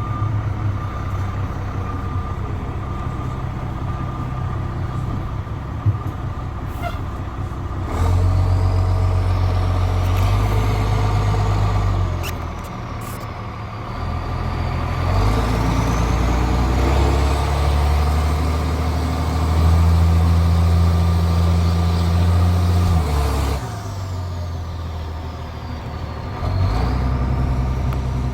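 Straight-piped Cummins C8.3 turbo-diesel six in a school bus pulling hard twice, its exhaust pitch stepping as the automatic transmission shifts up, with easing off between the pulls. A faint high whine rises and falls with the engine.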